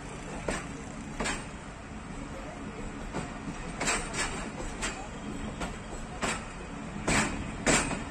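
Passenger train running along the track, heard as a steady rumble broken by about ten irregular sharp clacks, the loudest near the end.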